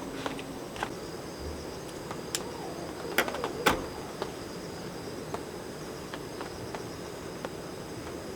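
Steady high-pitched chirring of insects, with a few sharp clicks, the loudest about three seconds in.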